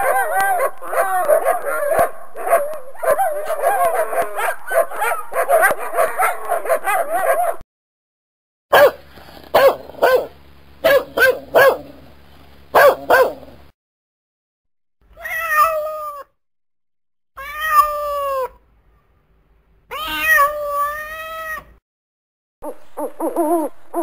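A pack of dogs barking together for about seven seconds, then a single dog barking in several short sharp barks. A cat meows three times, and near the end an owl starts to hoot.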